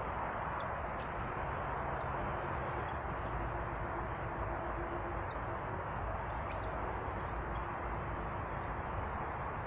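Steady rushing outdoor noise with scattered faint, short high chirps of small birds, a few most clearly about a second in.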